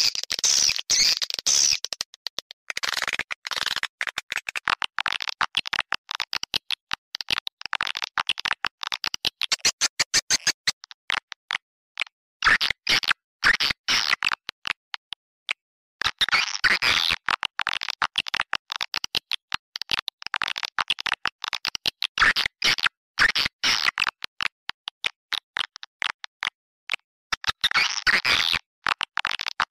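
A recorded swiftlet lure call: rapid twittering chirps and clicks of swiftlets, in bursts separated by short gaps. It is played through a sound system to draw swiftlets into a swiftlet house to roost and nest.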